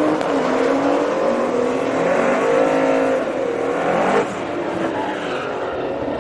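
Drag-racing engine revving, its pitch rising and falling repeatedly. About four seconds in there is a sudden sharp crack, after which the engine noise is quieter.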